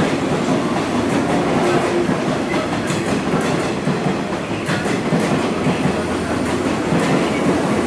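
JR 185 series express electric train running past a station platform, a steady rumble of wheels and motors with the clicking of wheels over rail joints.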